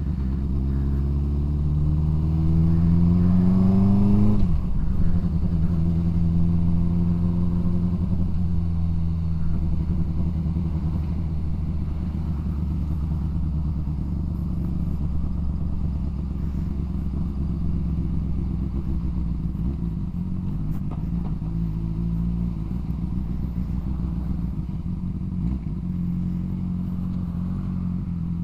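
Yamaha MT-07 parallel-twin engine riding along: it revs up for about the first four seconds, drops sharply at a gear change, then runs at a fairly even, moderate pace with small rises and falls.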